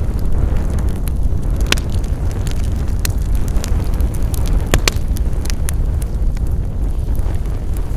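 Wood fire crackling: a steady low rumble of burning with scattered sharp pops and snaps, two of them louder, a little under two seconds in and just before five seconds.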